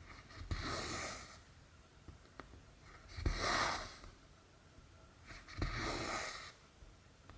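Cotton embroidery thread drawn through cross stitch fabric, three swishing pulls each about a second long, with a few faint clicks of the needle between them.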